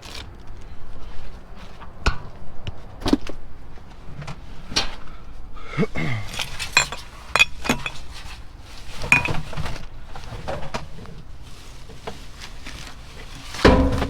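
Objects being moved and handled while rummaging through a dumpster: scattered clinks, knocks and rattles of hard items striking one another, with a heavier knock near the end.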